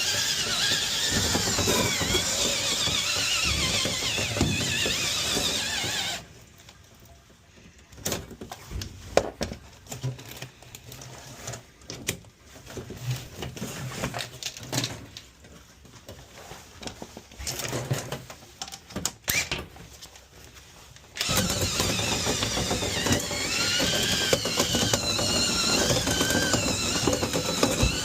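Dryer-vent cleaning equipment running with a wavering high squeal. It stops about six seconds in, leaving scattered knocks and clicks for about fifteen seconds, then starts up again.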